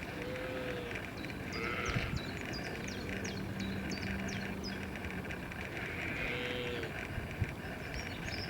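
Two drawn-out animal calls, one near the start and one about six seconds in, over quick high bird chirps and a steady outdoor background hum.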